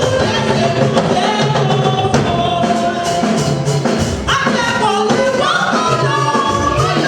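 Church singing with instrumental accompaniment: voices carry a hymn tune over sustained bass notes.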